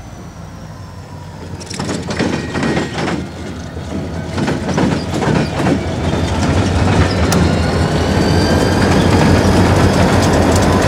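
Diesel freight locomotives passing close by, their wheels banging across a railroad diamond crossing in a run of sharp clatters that begins about two seconds in. Beneath them runs the low drone of the engines, which grows louder as the train goes by, and near the end the rolling clatter of the cars following.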